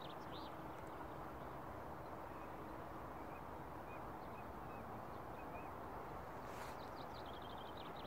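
Small birds chirping faintly over a steady outdoor hiss, with a quick run of rapid high chirps about seven seconds in.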